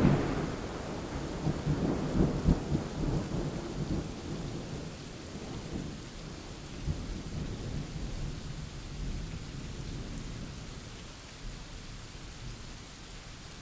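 Thunderstorm: a thunderclap rumbling and dying away with a few rolling surges over the first few seconds, then steady rain falling, slowly fading.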